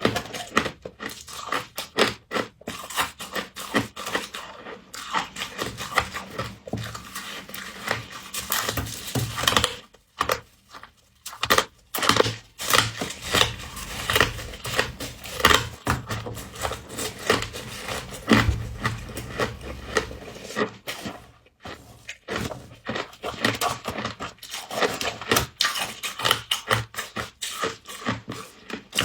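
Frost being crunched and chewed close to the microphone: a dense run of sharp crackles, broken by a couple of short pauses.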